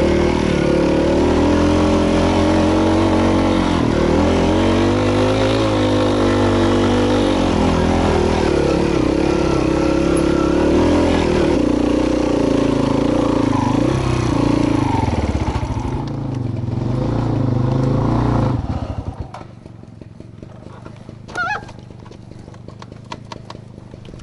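Single-cylinder trail motorcycle engine running, its revs rising and falling. It cuts off about three quarters of the way through, leaving a much quieter background with a few faint chirps.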